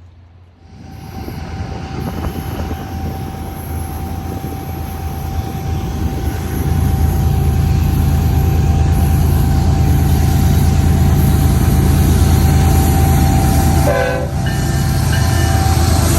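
BNSF diesel freight train locomotives approaching and passing, their low engine rumble building steadily and staying loud from about six seconds in. A brief higher-pitched sound comes near the end.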